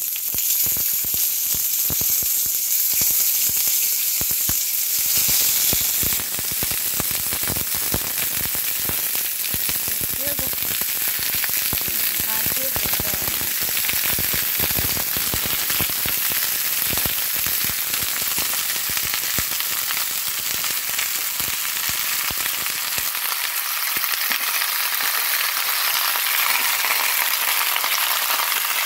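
Freshly added raw sliced potatoes and onions frying in hot oil in a cast-iron skillet: a steady sizzle with many small crackling pops, hissiest in the first six seconds or so.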